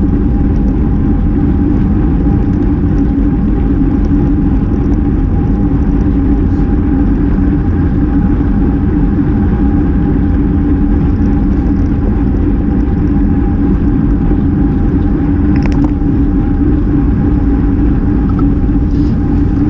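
Steady, loud wind and road noise from a road bike riding at speed, picked up by the racer's GoPro, with a low steady hum running underneath.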